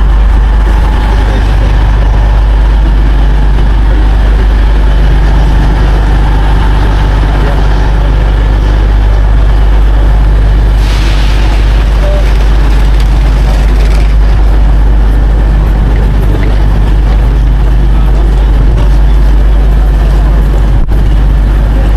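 Loud, steady low rumble of idling diesel train engines at the platform, with a burst of air hiss a little past halfway through. Faint voices are mixed in.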